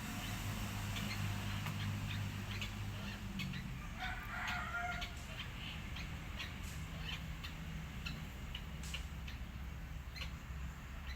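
A bird calls once, about four seconds in, for about a second, in a fowl-like squawk. A steady low hum and scattered sharp ticks run underneath.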